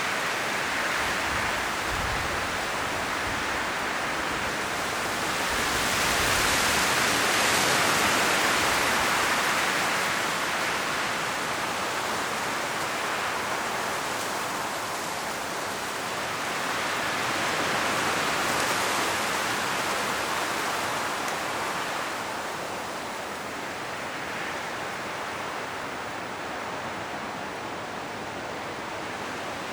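Wind gusting through an autumn forest's trees, the leaves rustling in a continuous rushing hiss. It swells in gusts about a quarter of the way in and again past halfway, then eases toward the end.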